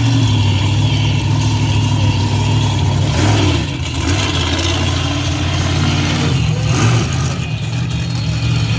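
Monster truck engine running hard at high revs during a freestyle run, easing off briefly about three and a half seconds in and again near seven seconds before pulling back up.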